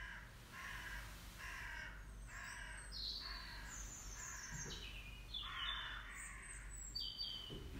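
Birds calling: a run of short, repeated calls, one or two a second, with higher chirps in the middle.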